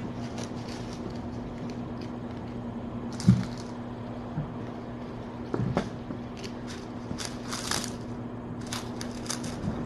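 Kittens crunching dry kibble: scattered crackly crunches and rustles, busier in the second half, with a couple of soft thumps. A steady low electrical hum runs underneath.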